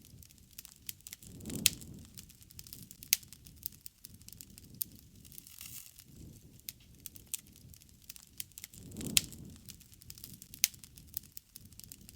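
Bonfire of burning wood crackling, with irregular sharp pops and snaps over a low rush of flame that swells twice.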